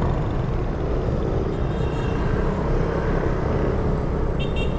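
Motorcycle riding at speed: a steady engine drone buried under a heavy rush of wind on the action camera's microphone, with a brief high-pitched tone near the end.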